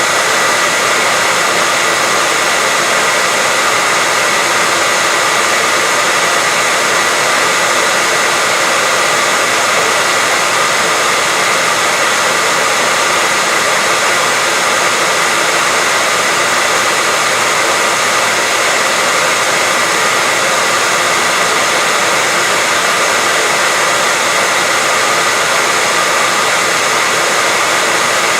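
Steady white noise: an even, unchanging hiss weighted toward the high end, with a faint steady high tone running through it.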